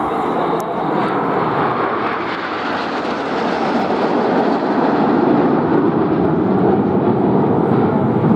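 A fixed-wing display aircraft's engine running steadily overhead, growing a little louder in the second half.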